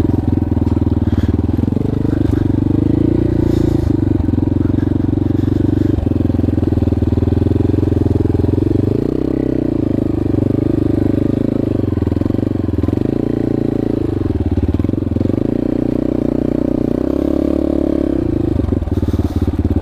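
Yamaha XT250 single-cylinder four-stroke engine running as the dirt bike rides up bare slickrock. The engine note stays steady and rises and eases with the throttle, with a few light clicks from the bike over the rock.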